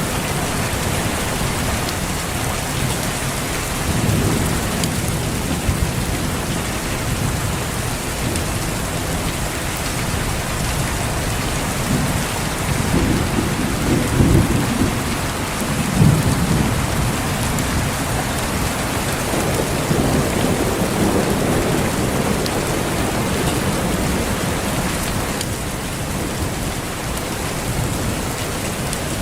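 Steady heavy rain hissing, with low rolls of distant thunder swelling several times, the strongest about halfway through.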